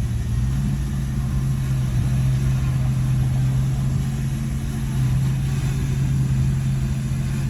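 Bulldozer's diesel engine running steadily, a loud low hum that holds one pitch.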